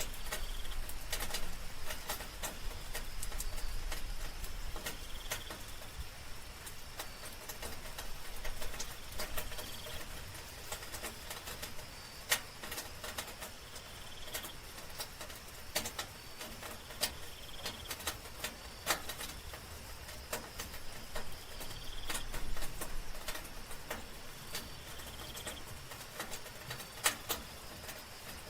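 Soft rain with individual drops landing in sharp, irregular clicks, over a steady high-pitched trill of night insects. A short call repeats about every four seconds.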